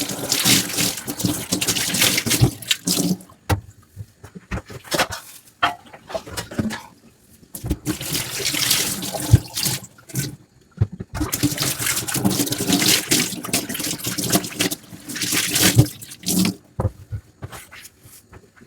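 Tap water running into a sink while dishes are washed, in three long stretches, with short knocks of handled dishes between them.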